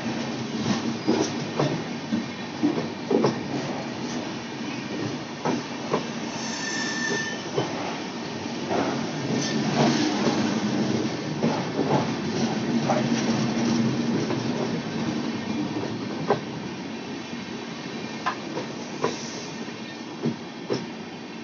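Passenger express train running past on the rails: steady running noise with frequent, irregular wheel clacks over the rail joints, and a brief high wheel squeal about six and a half seconds in.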